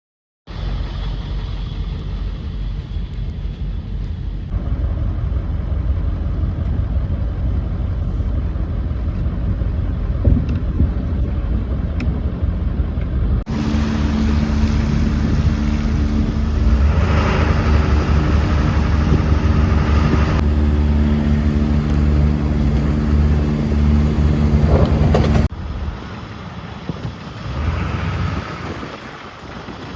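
Vehicle engine running steadily, with wind on the microphone. The sound changes abruptly twice, about 13 and 25 seconds in; between those points a steady pitched engine drone is the loudest thing.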